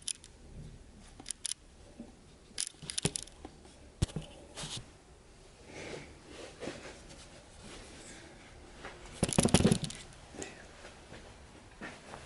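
Scattered clicks and short scrapes of handling noise in a small room, with a louder burst of clattering rustle about nine and a half seconds in.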